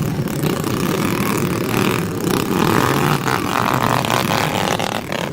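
Dirt bike engine running.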